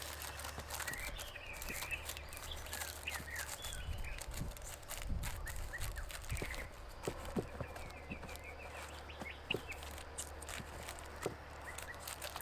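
Small birds chirping in short, repeated calls, with scattered clicks and knocks and a steady low rumble underneath.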